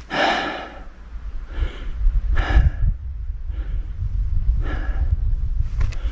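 A person breathing hard from exertion, with a heavy, audible breath about every second over a steady low rumble.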